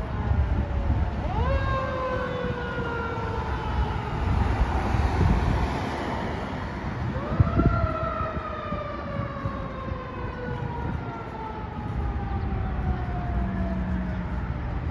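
Fire truck siren winding up quickly twice, each time falling slowly over several seconds, over the low rumble of the fire apparatus's engines.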